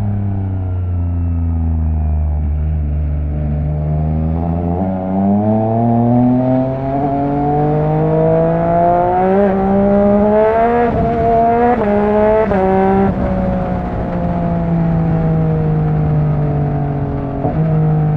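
Yamaha MT-09 three-cylinder engine through an opened-up Akrapovic exhaust, accelerating hard through the gears. The pitch climbs from about four seconds in, with quick upshifts around nine, eleven and twelve seconds in, then the engine eases off and runs steadily at cruising speed.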